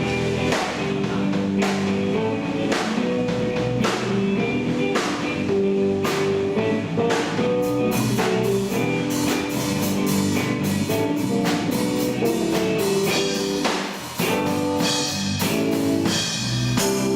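Rock band playing an instrumental passage on electric guitar and drum kit, with no vocals and steady drum hits. The sound dips for a moment about fourteen seconds in, then the band plays on.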